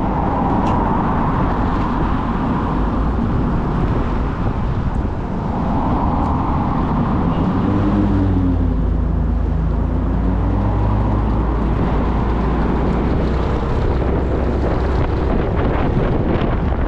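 Motorcycle riding in traffic: the engine runs steadily under wind and road noise, its note shifting in pitch around the middle as the speed changes. Wind buffets the microphone near the end.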